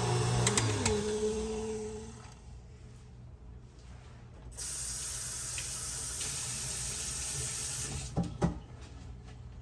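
KitchenAid stand mixer motor, driving the Spiralizer Plus attachment, winds down and stops about a second in. Later a steady rushing hiss runs for about three seconds, followed by a couple of short knocks.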